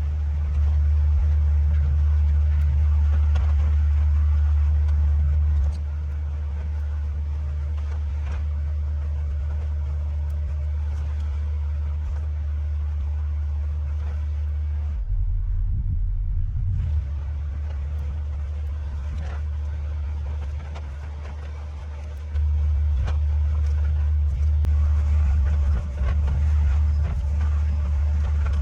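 Heavy land-clearing machinery running: a deep, steady engine rumble that jumps abruptly in level several times.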